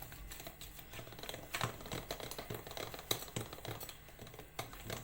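A mixing utensil clicking and knocking against a bowl as cake batter is beaten, in irregular taps several times a second.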